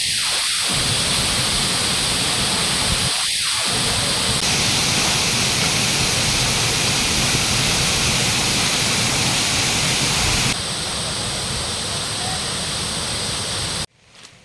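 Waterfall's falling water rushing in a loud, steady hiss. It changes abruptly twice, and cuts off sharply near the end.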